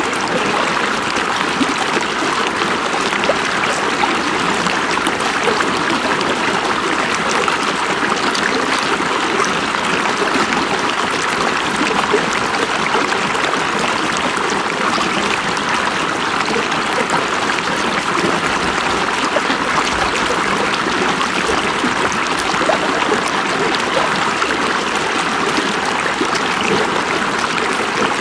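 River water flowing over rocks, a steady rushing and babbling with small splashes.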